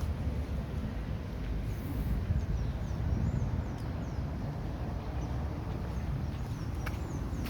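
Street ambience with a steady low rumble of traffic on a main road, over which a small bird gives short, high, arched chirps every second or two.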